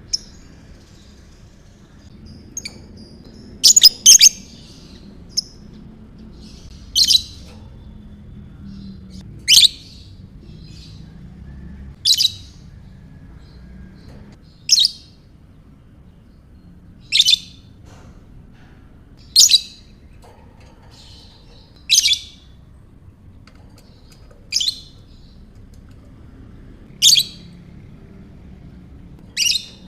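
Lovebird giving short, high-pitched chirps, one about every two and a half seconds, with a quick double chirp about four seconds in.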